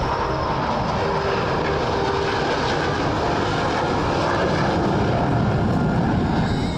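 Jet noise of Thunderbirds F-16 fighter jets flying over, a dense steady rush that grows a little louder and then cuts off near the end.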